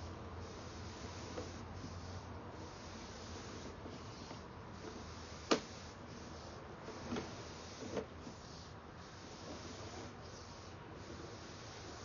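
Sewer inspection camera being pushed along a sewer pipe: a steady hiss with a few soft knocks, and one sharp click about five and a half seconds in.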